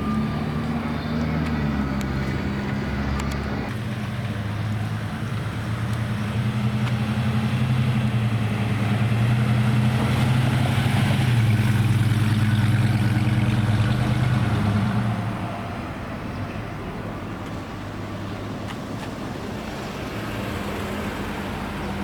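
Car engine running at a steady low speed, growing louder toward the middle and then dropping off about two-thirds of the way through.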